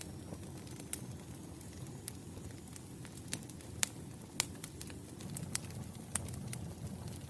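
Wood campfire burning: a steady low rumble of flames with irregular sharp crackles and pops, about eight in all, the loudest just before and just after four seconds in.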